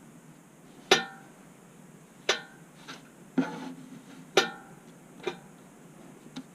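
About five sharp clinks of hard objects knocking, roughly a second apart, each ringing briefly, with a fainter tap near the end.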